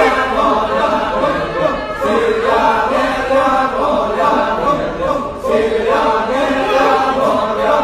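Kecak chorus: a group of voices chanting and singing a cappella, with a short dip about five seconds in.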